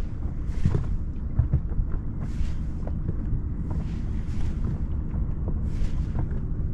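Strong wind buffeting the microphone, a steady low rumble, with a hissing swish rising and falling about every second and a half.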